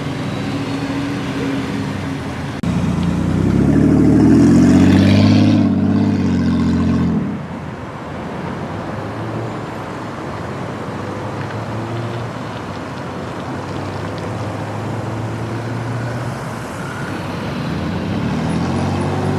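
Road traffic passing. One vehicle's engine drone comes in loudly about three seconds in and stops abruptly about four seconds later. Another engine is heard near the end.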